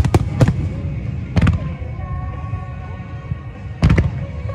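Aerial firework shells bursting with sharp bangs: a quick cluster of three at the start, another about a second and a half in, and one more near the end. Music plays underneath the bangs, over a steady low rumble.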